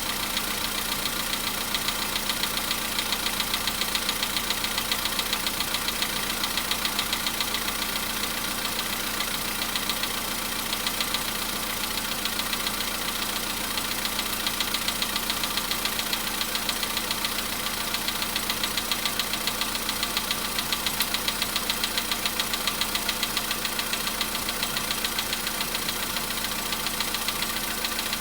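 Volkswagen Polo Sedan engine idling cold, with a rapid, even knocking running through the idle: the cold-engine knock.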